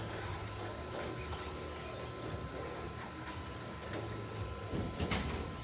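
Electric radio-controlled stock trucks running laps on a race track, giving a steady mechanical whirr with a thin high whine from the motors. There is one sharp click or knock about five seconds in.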